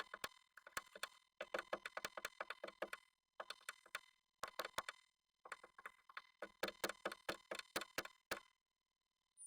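Rapid runs of sharp taps and clicks from a Japanese tit moving and working inside a wooden nest box, several a second in groups with short pauses, stopping shortly before the end.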